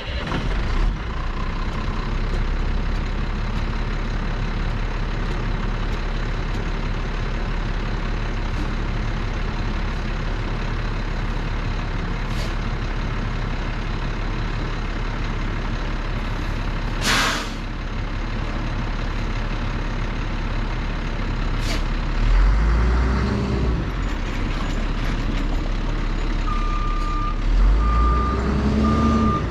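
International 4300 truck's diesel engine starts up and idles steadily. About 17 s in, a short sharp hiss of air is released, typical of the air brake system. The engine revs twice near the end, and evenly spaced reversing beeps sound about once a second as the truck is put in reverse.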